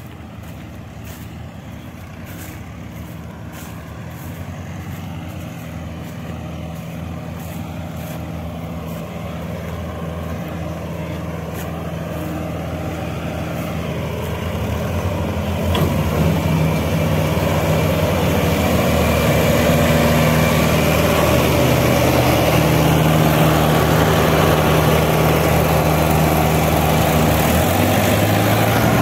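Tractor engine running steadily, growing gradually louder, with a jump in loudness and a heavier engine note about halfway in, as if working harder or coming closer.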